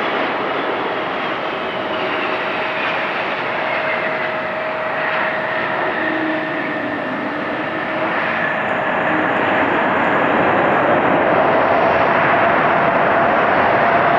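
Korean Air Boeing 777-200ER landing, its twin turbofan engines giving a steady jet rush with a whine that slowly falls in pitch; the noise grows louder in the second half.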